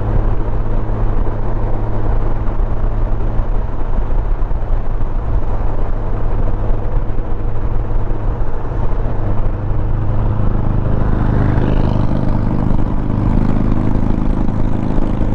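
Honda Gold Wing motorcycle cruising at highway speed: a steady low engine hum under wind and road noise. The sound swells and grows louder from about eleven seconds in.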